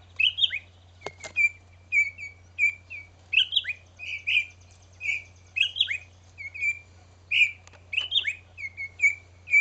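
Parent songbirds giving repeated sharp alarm chirps, about two a second, many with a quick falling sweep. They are agitated at a person close to their fledgling.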